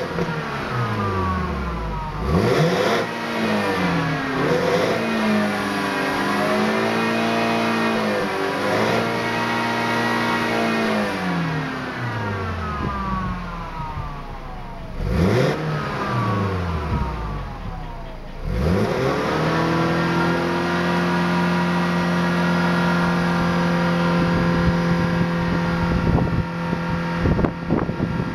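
BMW E90 320i's four-cylinder engine through its standard exhaust muffler, revved in quick blips that fall back. Twice the revs are held up: for several seconds with a slight wobble, then falling away, and later steady at one pitch.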